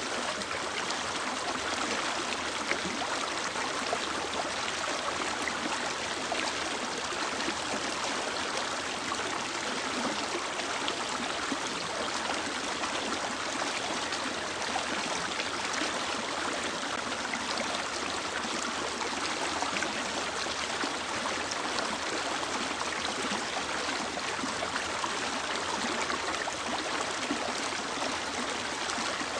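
A mountain stream flowing over rocks: a steady, even rush of running water with no change.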